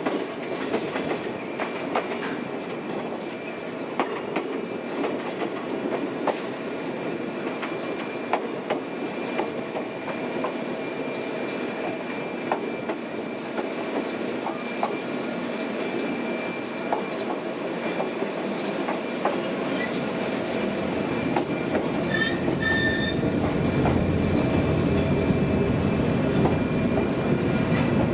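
Old JNR-type electric train running on the rails, with a steady rumble and repeated clicks as the wheels pass over rail joints. The rumble grows louder and deeper over the last several seconds.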